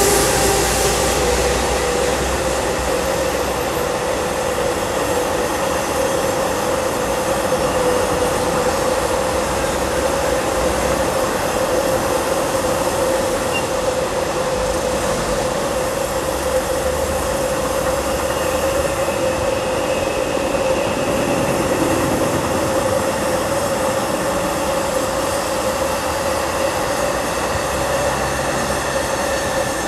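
A long freight train of car-carrier wagons rolling past behind an SNCF BB 26000 electric locomotive: a steady, loud rush of wheels on the rails with a constant whine running through it.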